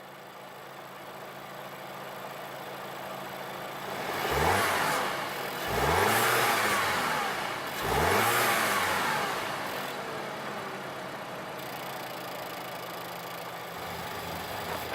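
Volkswagen Golf Sportwagen's 1.8 TSI turbocharged four-cylinder idling, then revved three times. Each rev falls back with a hissing release from the Torque Solution blow-off valve adapter, venting boost as the throttle closes, before the engine settles back to idle.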